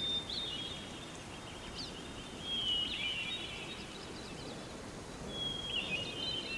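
Songbirds chirping and warbling over a steady outdoor background hiss, with the busiest song about two and a half seconds in and again near the end.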